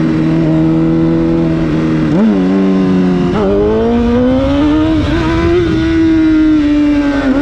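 Honda CBR1000 inline-four sportbike engine under way, with wind rushing past. The engine note holds steady, then jumps and dips about two and three and a half seconds in as the rider works the throttle and gears. It then climbs steadily as the bike accelerates and falls away sharply near the end with a gear change.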